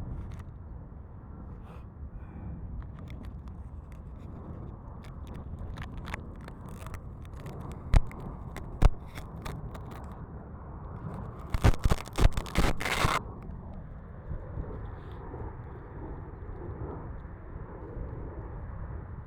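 Wind rumbling on the onboard camera's microphone of an RC plane, with scattered clicks. Two sharp knocks come about eight and nine seconds in, and a loud burst of knocking and scraping follows about twelve seconds in.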